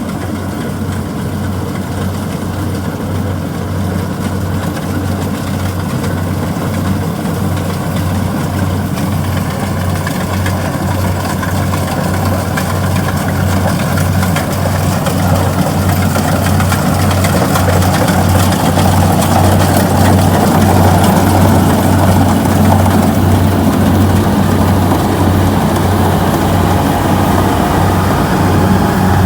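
Kubota DC-70G combine harvester's diesel engine running steadily with an even low throb, growing gradually louder.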